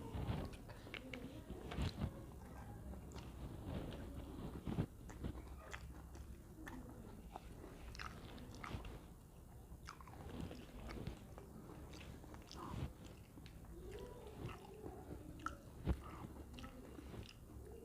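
A person eating a banana-leaf meal: close chewing and biting, with scattered small crunches and clicks.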